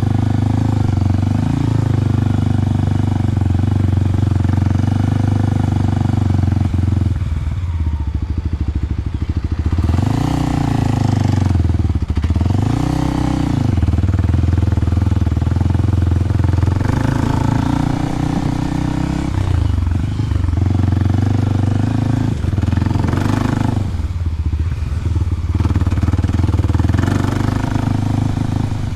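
Kawasaki KLX300's single-cylinder four-stroke engine running through a Delkevic 10-inch oval slip-on exhaust, held steady for several seconds, then revved up and back down twice in quick succession, with further changes in engine speed later on.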